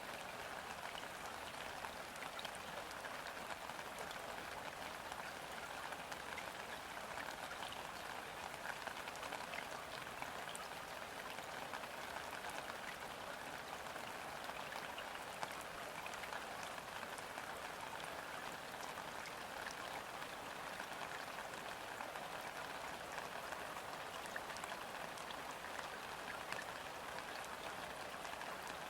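Steady light rain falling on a river, a dense patter of drops hitting the water surface.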